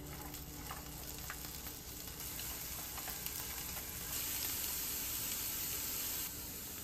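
Bamboo shoots sizzling as they fry in butter in a frying pan, with a few light taps of chopsticks stirring them. The sizzle grows louder for about two seconds past the middle, then eases back.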